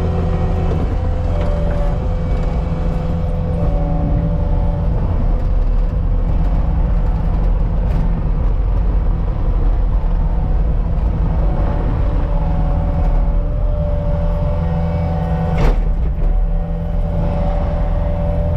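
CAT 279D compact track loader running steadily under work, its diesel engine humming low with a higher whine that shifts in pitch as the machine works. Two sharp knocks come through, one about halfway through and a louder one near the end.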